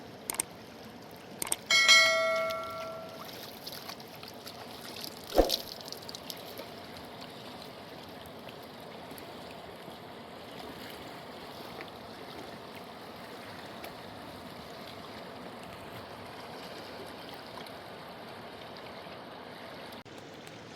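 Mountain river rushing steadily. Near the start there are a few sharp knocks and a brief metallic ring lasting about a second, followed by one more knock a few seconds later.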